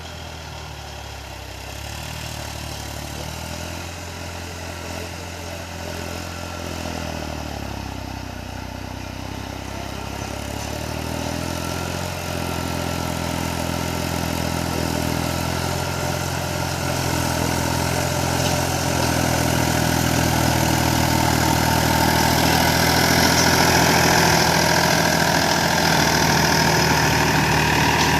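Mahindra 295 DI Turbo tractor's diesel engine running at a steady speed and growing gradually louder.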